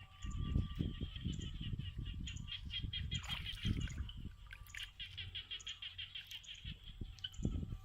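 Bird chirping in quick, evenly repeated series of high notes, about eight a second, over an uneven low rumbling.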